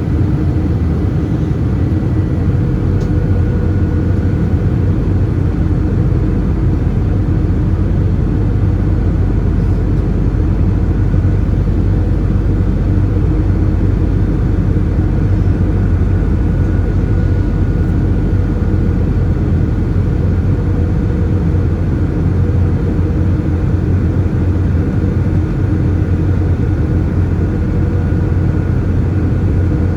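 Steady engine and airflow noise heard inside the passenger cabin of an Airbus A320-214 with CFM56-5B turbofan engines: a constant low hum with a faint thin whine above it.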